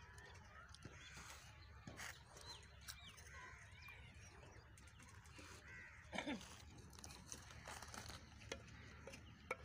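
Faint outdoor background with scattered short bird calls, one louder call about six seconds in.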